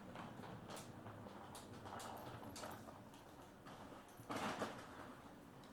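Quiet cabin of a standing JR 103 series 1500 electric train: scattered light knocks and clicks, with a short hiss about four and a half seconds in.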